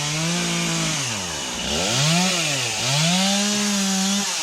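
Gas chainsaw running at high revs, its throttle let off and squeezed again several times, so the engine speed dips and climbs back, most deeply about a second and a half in and again near three seconds.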